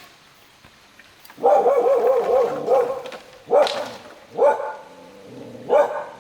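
A dog: one long wavering whine, then three short barks.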